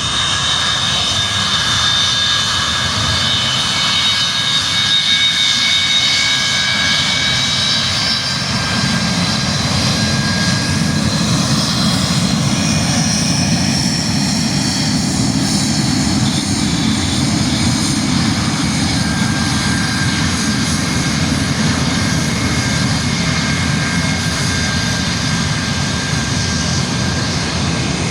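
Jet engines of a Boeing airliner running at high power: a steady high whine of several tones over a broad roar, with a deeper rumble building about eight seconds in.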